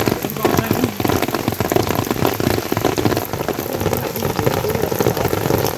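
Heavy rain falling, a dense, steady noise of many drops striking.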